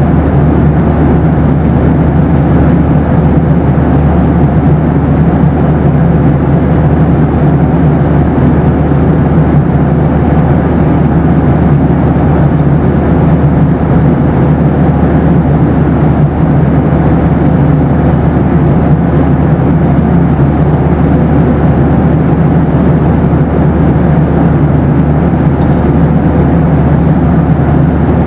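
Boeing 737 cabin noise in flight: a steady, even roar of engines and airflow, heaviest in the low range, with a faint steady hum running through it.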